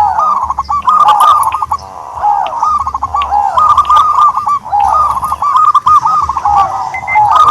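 A bird calling without pause in quick, rising-and-falling notes, several a second.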